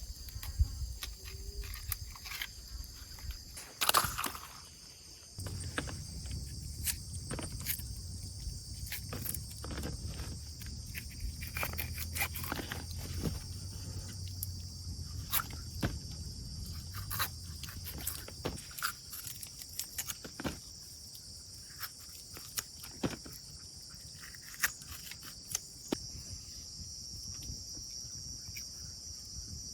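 Steady high-pitched chirring of insects, likely crickets, with scattered sharp clicks and knocks throughout and a louder knock about four seconds in. A low rumble runs from about five seconds in until past the middle.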